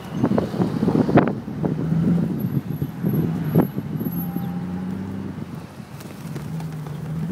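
Motor vehicle engine running with a steady low hum, with wind on the microphone and a few brief thumps.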